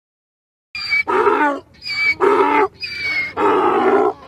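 Donkey braying, starting about a second in. It is a repeated hee-haw of about three cycles: a thin, high note on the in-breath alternates with a louder, lower honk on the out-breath.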